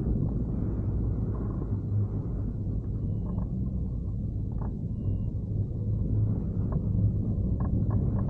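Wind buffeting the microphone during hang-glider flight: a steady low rumble with a few faint clicks.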